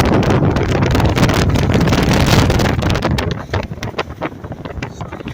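Wind buffeting the microphone of a moving car, a loud low rumbling gust for about three seconds, then easing into weaker fitful gusts with sharp crackles.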